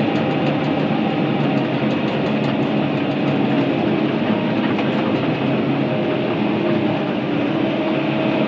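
Volvo excavator's diesel engine and hydraulics working steadily under load as it pushes a pile of brush, with a light, rapid clatter over the top.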